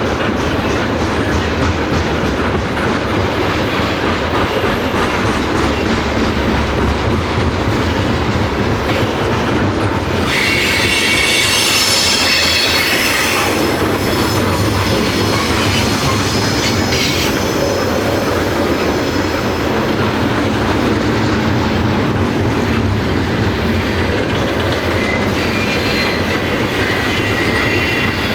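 A train's cars rolling past with steady rail noise and clatter over the track, and a high-pitched wheel squeal about ten seconds in lasting a few seconds, with shorter, fainter squeals later.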